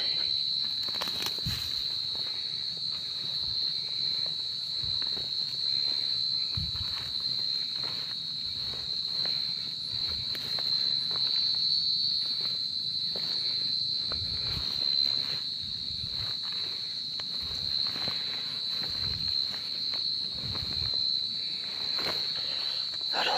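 Cricket calling with a continuous high, steady trill from inside its burrow, with irregular rustling and knocking noises.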